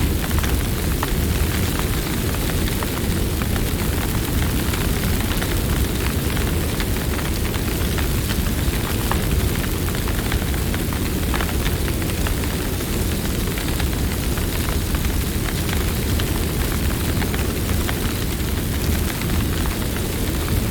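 Campfire burning: a steady low rush of flame with many small crackles and pops from the burning wood, scattered irregularly.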